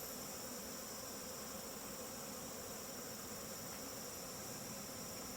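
Steady, soft hum of a honeybee swarm crowding into a hive body box, with no breaks or changes.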